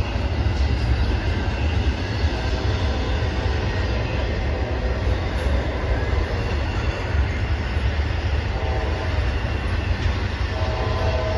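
Intermodal freight train rolling steadily past close by: a constant heavy rumble of wheels on rails with some clickety-clack. A faint squeal from the wheels comes in near the end.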